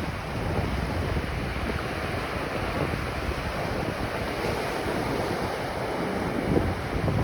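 Ocean surf washing onto a beach in a steady rush, with wind buffeting the microphone in low rumbling gusts.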